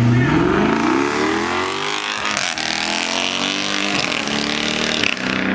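A car engine accelerating hard, its pitch climbing over the first second or so, then holding a steady high note as it keeps pulling.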